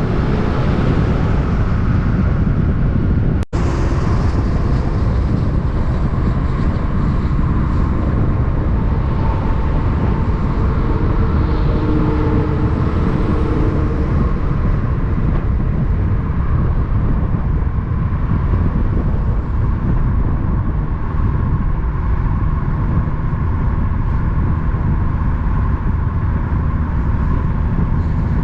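Road traffic with heavy trucks passing: steady engine and tyre rumble throughout, with a momentary dropout about three and a half seconds in.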